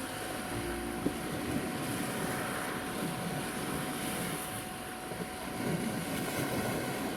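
Sea waves washing on a beach with wind buffeting the microphone, under a steady pure 741 Hz tone held throughout. A low hum comes and goes underneath.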